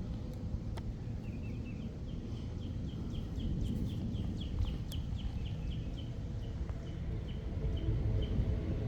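A bird calling a long series of quick repeated chirps, about four or five a second, that slow and fade toward the end, over a steady low outdoor rumble.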